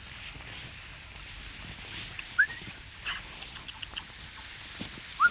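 Wild birds calling over a faint outdoor background: a short rising call about halfway through and another near the end, with a few brief clicks and a short noisy burst between them.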